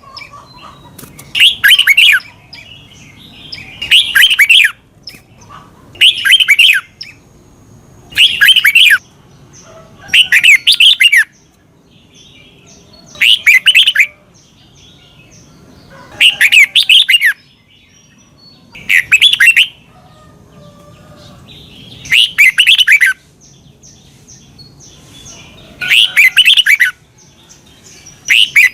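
Red-whiskered bulbul singing: short, loud, warbled phrases of a second or less, repeated about every two to three seconds.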